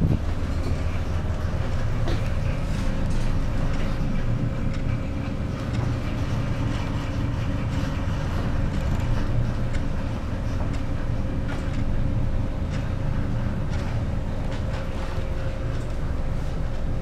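Steady low drone of a reefer ship's engine and machinery heard aboard, with a thin constant hum held over it.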